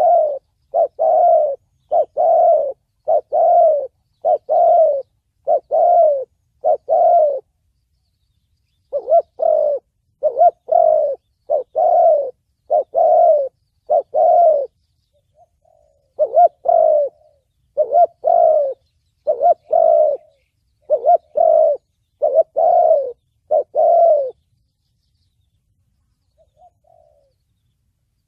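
Spotted dove cooing in the 'thổ bầu' voice, a song style used as a lure call for trapping doves. Runs of rapid, loud coos come in three bouts with pauses of about two seconds between them, and one faint note comes near the end.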